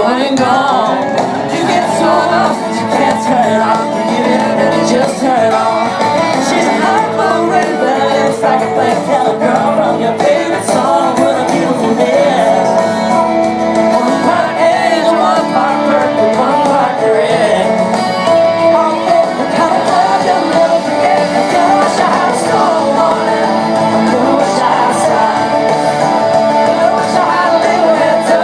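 A live band plays a country-pop song, a male lead vocal singing over drums and guitars, loud and steady throughout.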